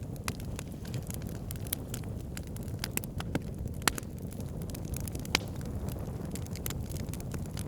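Wood campfire burning: a steady low rush of flames with irregular sharp crackles and pops of burning logs, a few louder pops about three and a half, four and five and a half seconds in.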